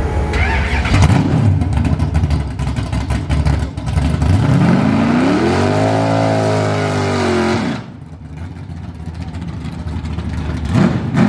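Engine of a vintage Mopar station wagon drag car running loud at the start line, then revving up in a rising note that is held for a couple of seconds. About eight seconds in the sound drops off sharply and stays much quieter as the car launches away down the strip.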